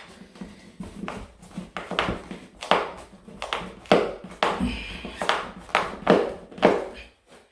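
Repeated sharp metal-on-wood knocks, about two a second, from a small pry bar being worked and tapped behind a stubborn nailed-on baseboard.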